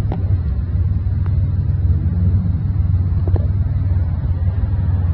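Car engine running with a steady, low rumble.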